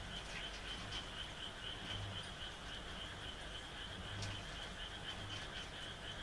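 A night chorus of frogs: a fast, evenly pulsing high trill runs throughout, with a deep low croak every second or so, over light rain with occasional drop ticks.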